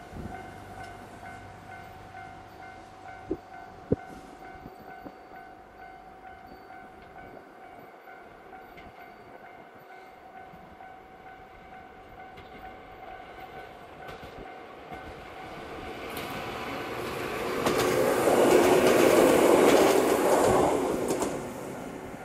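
JR West 115-series electric multiple unit approaching and passing close by. The rumble of its wheels and motors builds to a loud rush about 18 seconds in, then falls away just before the end. Two sharp clicks sound about three and four seconds in.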